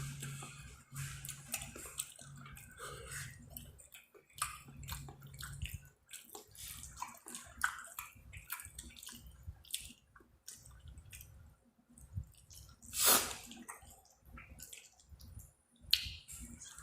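Close-up eating sounds of a person chewing shrimp, lobster and chicken alfredo pasta: a run of wet smacks and mouth clicks, with one louder, longer wet sound about thirteen seconds in.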